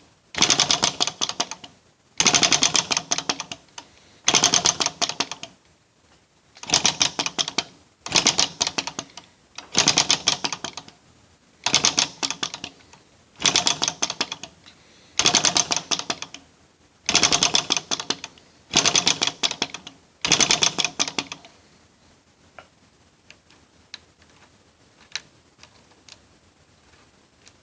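Model flame licker (vacuum) engine clattering in about twelve short bursts of rapid ticking, each fading out within a second or so. It turns over but won't keep running. After about 21 seconds only a few faint ticks remain.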